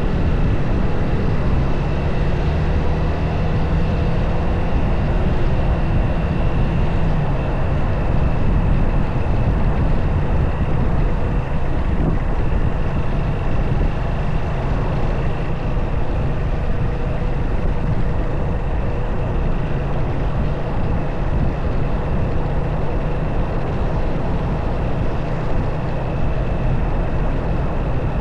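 Motorcycle riding at a steady pace: engine running under a continuous rush of wind and road noise, with no change in speed.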